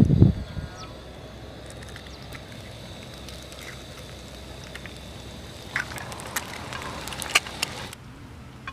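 Steady hiss with a run of crackles and pops from about six seconds in, stopping abruptly near the end.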